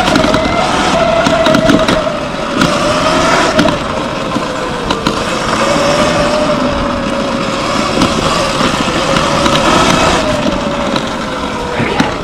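Surron X Light Bee electric dirt bike riding a trail: the electric motor's whine drifts gently up and down in pitch with speed over a steady rushing noise, with a few short knocks.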